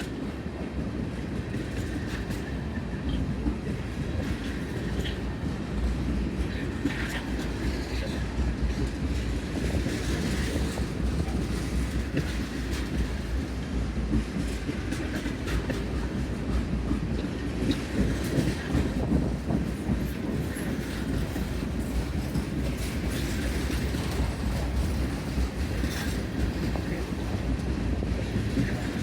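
Freight cars of a mixed manifest train rolling past with a steady rumble, their wheels clicking and knocking over the rail joints, with light squealing now and then.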